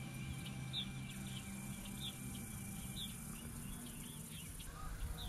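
Birds calling outdoors: a short, high, falling chirp repeats about once a second among other twitters, over a low rumble. Soft ambient music tones fade out about a second and a half in.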